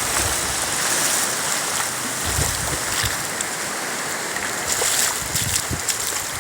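Sea surf washing onto the beach, a steady rushing, with a few brief low thumps about two and a half and five and a half seconds in.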